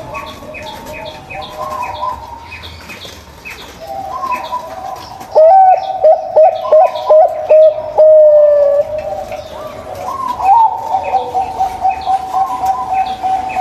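Zebra doves (perkutut) cooing, more than one bird overlapping. About five seconds in comes a fast run of loud, clipped coo notes, ending in one long drawn note. Small birds chirp steadily and rhythmically behind them.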